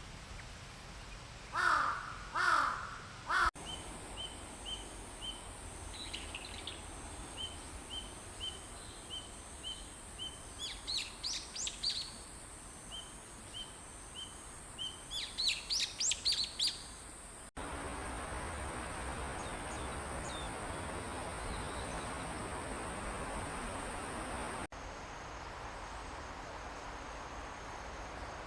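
A crow caws three times in quick succession. Then a small bird repeats a short high note about twice a second, breaking twice into brief busier phrases, over a steady high insect drone.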